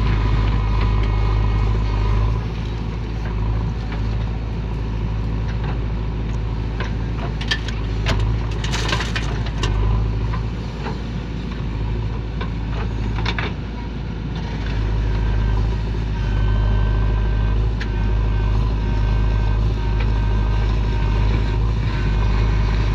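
JCB backhoe loader's diesel engine running steadily as it works loading soil, with a few clanks and a brief hiss about eight or nine seconds in.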